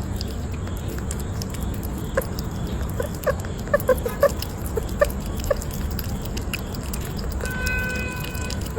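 A small pet's short, rapid chirps and squeaks, bunched in the middle, with light pattering and clicks over a steady low background rumble. Near the end comes a brief held higher-pitched squeak or tone.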